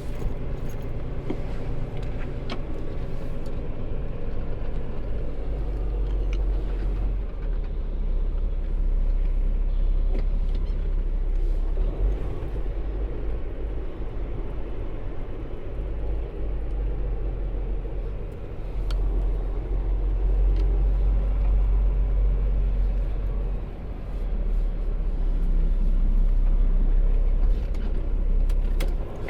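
Semi truck's diesel engine running, a steady deep rumble that swells and eases a few times.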